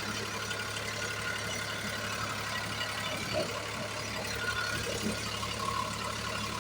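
New Holland tractor's diesel engine idling steadily, a low even hum.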